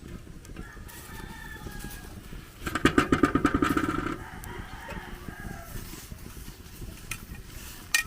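A rooster crowing once, loud, about three seconds in and lasting about a second and a half, over low farmyard background. A sharp click comes near the end.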